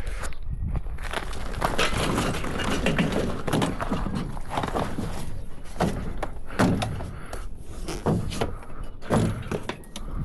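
Knocks, thuds and scuffing handling noise over a constant rough hiss, as a small pit bike is lifted and shifted into the back of a pickup.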